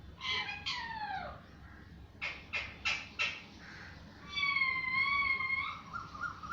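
Parrot calling: two falling calls, a quick run of four short sharp calls, then one long, slightly wavering held note.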